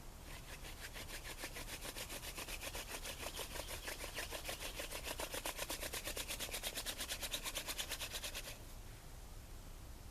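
Hand-drill friction fire: a wooden spindle spun back and forth between the palms into a wooden hearth board, making a fast, even rubbing rhythm. It grows louder and then stops about eight and a half seconds in.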